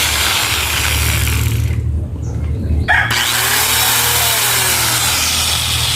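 Mitsushi 1000 W angle grinder switched on and running free with no load, a loud high-pitched whine. It cuts out about two seconds in and starts again about a second later.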